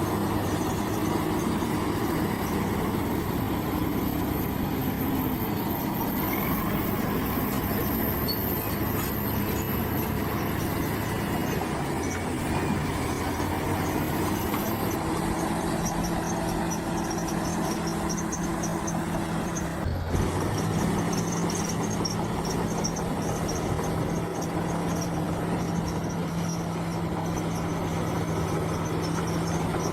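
Diesel engine of heavy earthmoving machinery running steadily under a low, even hum. About two-thirds of the way through, the sound changes abruptly to a steadier, lower engine note.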